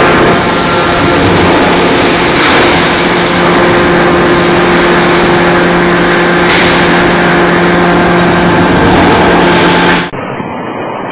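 Loud, steady roar of forge-shop machinery with a steady hum under it; it cuts off abruptly about ten seconds in.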